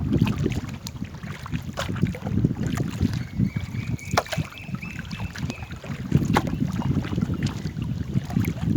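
Wind rumbling on the microphone aboard a small paddled boat, with scattered knocks and splashes. A faint thin whistle-like tone lasts a couple of seconds in the middle.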